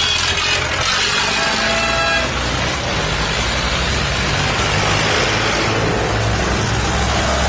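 Tractor engines running on the road run, a steady low mechanical drone, with a horn tone sounding for the first two seconds.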